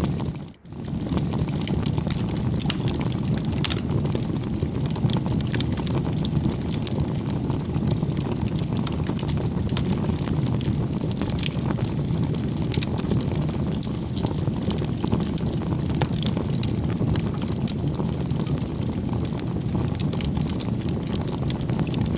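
Campfire crackling: a steady low rush of burning wood with frequent sharp pops and snaps, briefly dropping out about half a second in.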